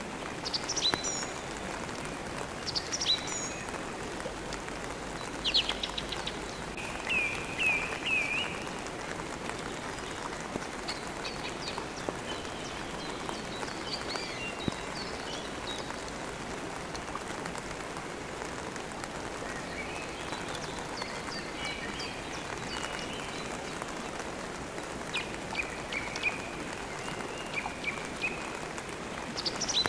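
Steady rain falling, with birds chirping and trilling in short bursts over it several times.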